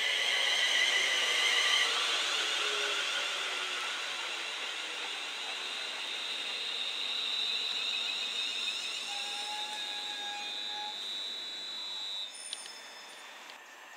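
A Class 350 Desiro electric multiple unit running past close by: wheels on rail and a high electric whine that slowly rises in pitch. It is loudest in the first couple of seconds, eases off, and drops away sharply about twelve seconds in as the end of the train goes by.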